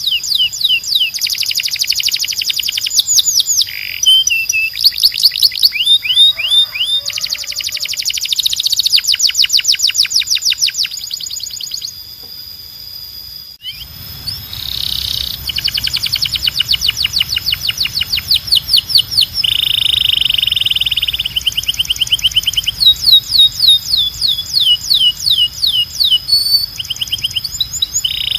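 Canary singing a long song of fast trills and rolls, phrases of rapidly repeated downward-sweeping notes changing every second or two. About halfway through the recording cuts abruptly to another bout of song with a low hum underneath.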